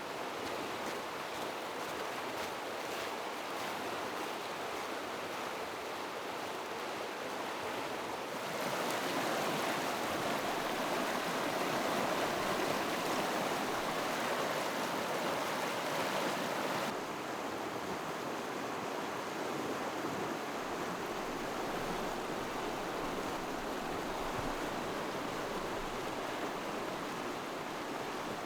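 River water rushing over rapids, a steady noise that steps up louder about eight seconds in and drops back about seventeen seconds in.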